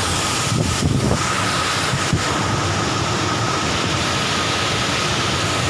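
Waterfall rushing: a steady wash of falling water with no breaks.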